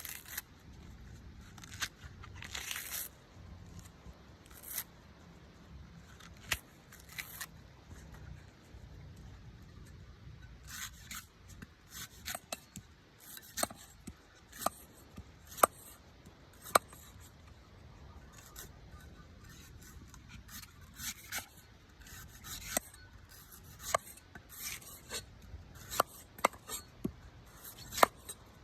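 A knife cutting and scraping a coconut: short sharp strokes and brief scrapes at irregular intervals.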